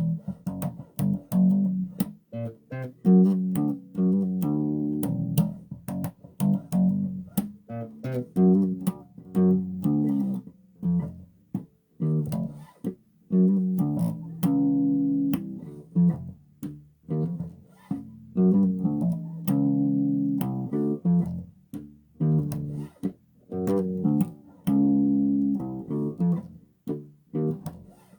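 Bass guitar played solo: a loose run of plucked notes with sharp attacks, some left to ring for about a second, with short pauses between phrases.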